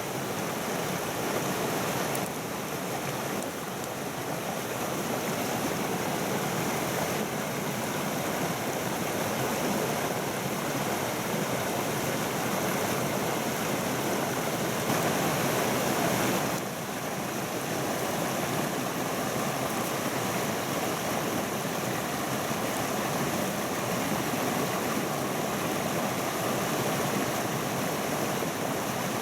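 Mountain stream rushing steadily, a constant even wash of water noise, with small shifts in level about two seconds in and again just past the middle.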